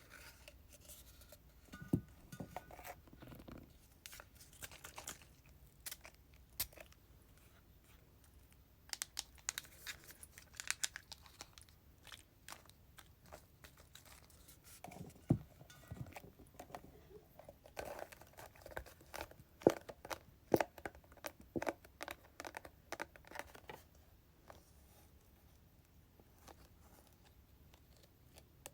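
Slow, irregular tapping and clicking of fingernails on hair-product containers, in clusters of light taps with a few sharper knocks and short pauses between them, mostly fading near the end.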